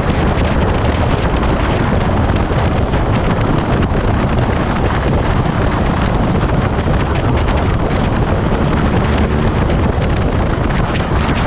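Heavy wind noise buffeting the microphone of a moving motorcycle, a steady loud rush strongest in the low end, with the bike's running sound mixed in beneath.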